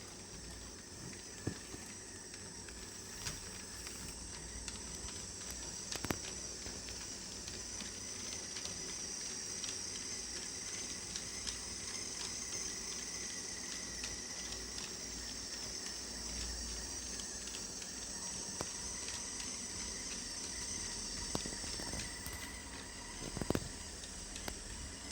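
HO-scale brass Heisler model locomotive running on track: a steady high-pitched whirring hiss from its motor and gearing, with small irregular clicks of wheels over the rails and a few sharper clicks. The whir swells slightly and then eases off near the end.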